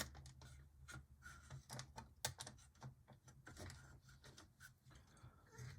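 Faint, irregular clicks and taps from handling an HO scale model locomotive on test track, with a low steady hum underneath. No motor sound: the locomotive's motor does not run.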